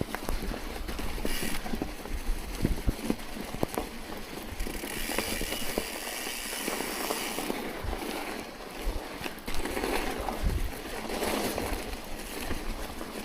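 Bicycle ridden through snow: tyres crunching over it, with irregular clicks and knocks from the bike and wind noise on the microphone. A brighter hiss swells about five seconds in and fades a few seconds later.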